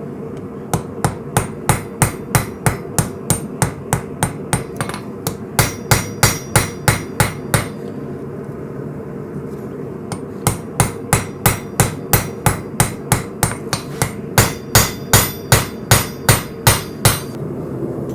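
Hand hammer striking hot coil-spring steel on an anvil as a knife blank is forged, about three blows a second in two runs with a short pause between. A steady low noise runs underneath.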